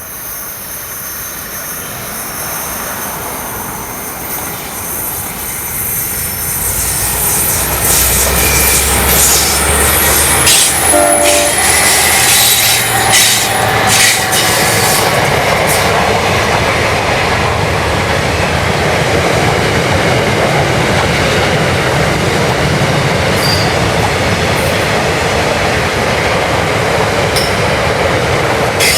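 Freight train hauled by four diesel locomotives approaching and passing, its engine and wheel noise growing louder over the first seven seconds and then staying steady. There is a short horn note about eleven seconds in, and high wheel squeal while the lead units pass.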